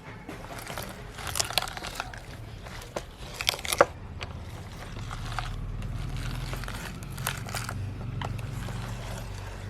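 Carrots crunching and cracking as a meat grinder chews through them, sharp snaps clustered in the first few seconds. A steady low motor hum sets in about halfway through.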